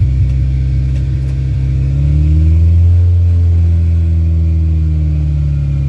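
Rat rod farm truck's engine running while driving, heard from a phone mounted inside the truck; its pitch rises about two seconds in and eases back down near the end.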